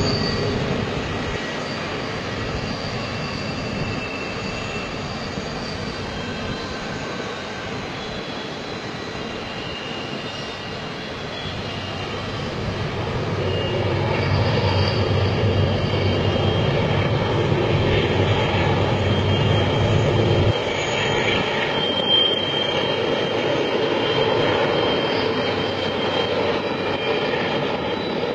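A long train running past: a continuous rumble and rolling noise that swells about halfway through, its deep low rumble dropping away suddenly a few seconds later.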